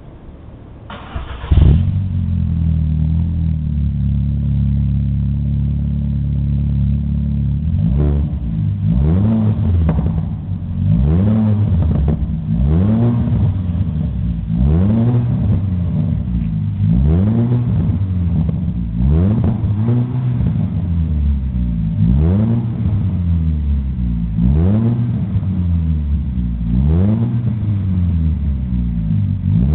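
VW Golf IV engine breathing through a cat-back stainless exhaust in 76 mm pipe with 80 mm tailpipes: it is cranked and starts about a second and a half in, idles steadily, then from about eight seconds in is blipped repeatedly, one short rev about every two seconds.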